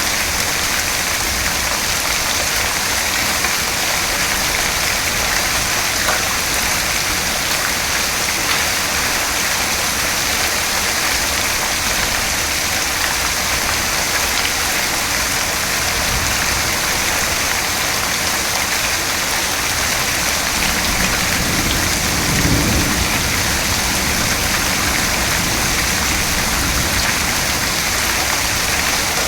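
Steady rain hissing without a break. About two-thirds of the way in, a low roll of thunder swells for a few seconds and fades.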